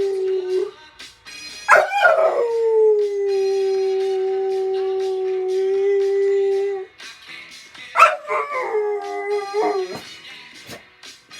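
A dog howling: long howls that start high, slide down and hold a steady pitch. The longest is held about five seconds, and a shorter, wavering howl comes about eight seconds in.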